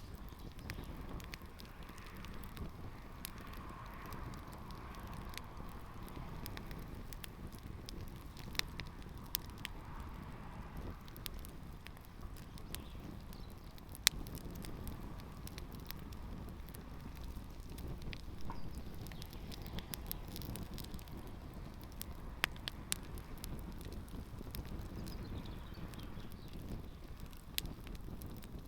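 Campfire burning a pair of canvas Converse sneakers, with scattered sharp crackles and pops over a steady low rush. The loudest pops come right at the start and about halfway through.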